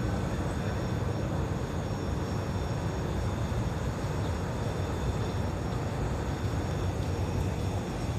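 Asagiri engine running steadily on a test run, a continuous low-pitched running sound with no change in speed.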